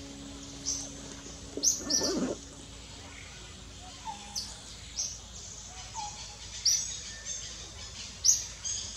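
Small birds chirping: repeated short, high chirps, loudest about two seconds in and near the end, over a steady background hiss. A brief lower-pitched sound comes in with the chirps about two seconds in.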